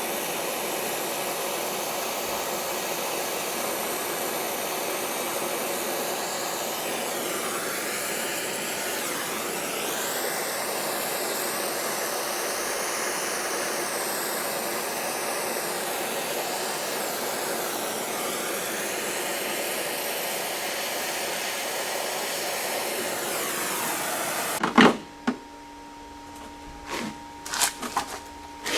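Brazing torch flame burning with a steady, even hiss while the cap-tube joint is heated, its sound shifting slightly once or twice as the flame moves. Near the end the torch is shut off with a sharp pop, followed by a few light clicks and knocks.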